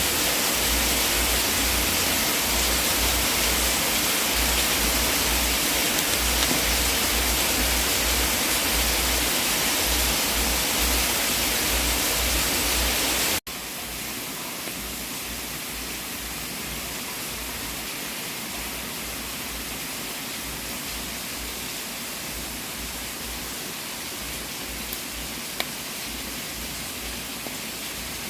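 Steady hissing noise of a fireplace fire, with a few faint pops near the end. About halfway through it drops out for an instant and resumes noticeably quieter.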